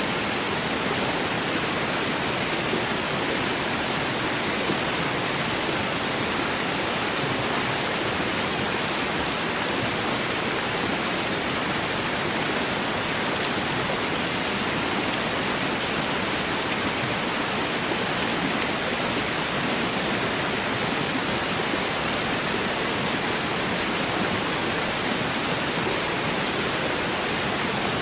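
Steady rushing of a babbling creek, an even water noise with no breaks or changes in level.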